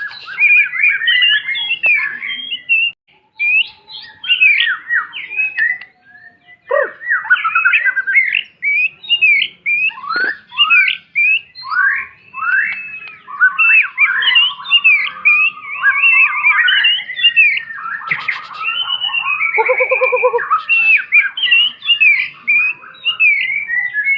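White-rumped shama singing a long, rapid, varied song of whistles, sweeping chirps and harsh chattering notes, with a lower buzzy rattle about twenty seconds in.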